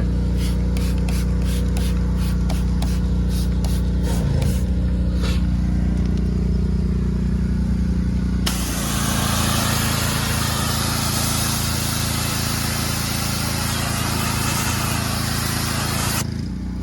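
Pressure washer's engine running steadily, with a run of short rhythmic strokes about twice a second in the first few seconds. About eight seconds in, the spray gun opens and a loud hiss of the water jet runs for about eight seconds, then cuts off.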